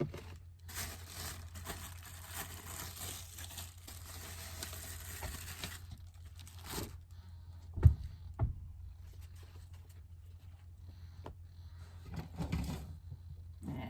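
Plastic bread bag crinkling and rustling for about five seconds as slices of bread are taken out, then two sharp knocks a little later, with a steady low hum underneath.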